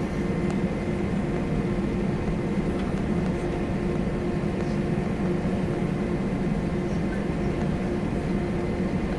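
Steady cabin noise of an Airbus A320 airliner: the drone of its jet engines mixed with the rush of air and ventilation, holding at an even level with a low steady hum.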